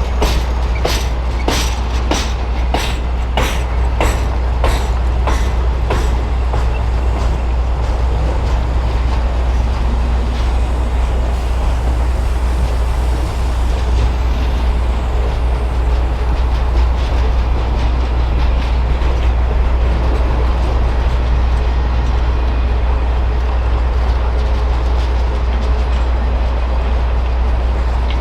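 Norfolk Southern Triple Crown RoadRailer train rolling by, its wheels clicking over rail joints at just under two clicks a second for the first several seconds, then a steady rolling rumble.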